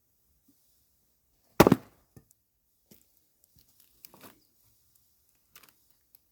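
An axe strikes and splits a log of firewood with one loud chop about a second and a half in, followed by a few lighter wooden knocks as the split pieces fall and are handled.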